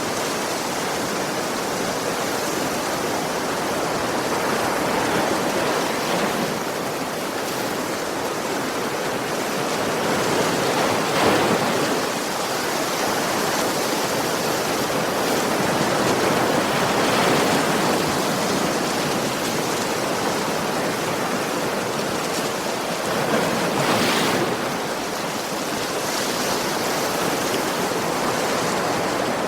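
Ocean waves breaking and washing on a beach: a steady rush of surf that swells a little every few seconds.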